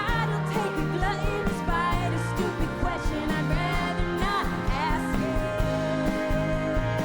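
Live band playing a country-tinged indie rock song with a steady drum beat, bass and sung vocals; a long note is held from about five seconds in.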